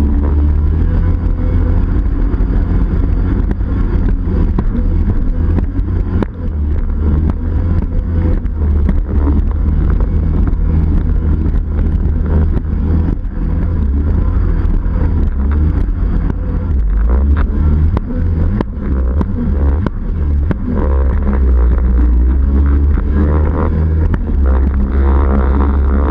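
Yamaha 701 two-stroke twin in a Waveblaster personal watercraft, home ported with a Riva head, pipe and waterbox, running loudly under test, with its note dipping briefly a few times.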